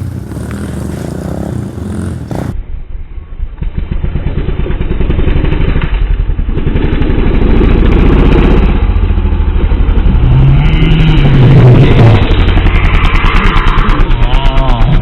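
Dirt bike engine running and revving, its pitch rising and falling several times in the second half.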